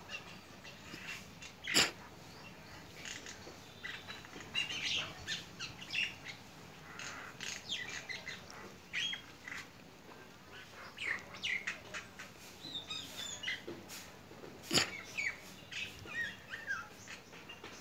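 Birds chirping and calling in short, high notes scattered throughout. Two sharp clicks cut through, one about two seconds in and another late on.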